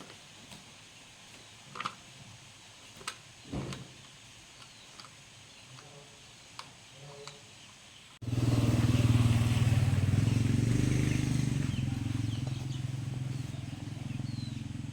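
A few faint knocks and clicks, then about eight seconds in an engine comes in abruptly, running with a low, steady rumble that slowly fades.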